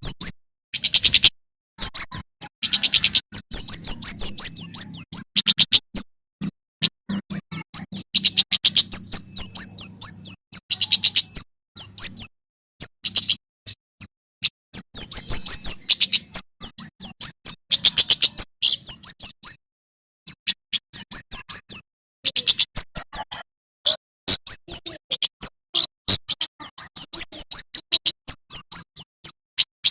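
Male prenjak keres (kemade) singing in rapid bursts of sharp, high chirps, each burst lasting a second or a few seconds with short pauses between. A faint low hum lies under the first ten seconds or so.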